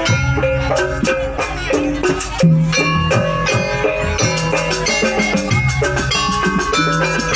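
Gamelan ensemble playing jaranan accompaniment: bronze metallophones ringing short held notes at shifting pitches over drum strokes, with one louder stroke about two and a half seconds in.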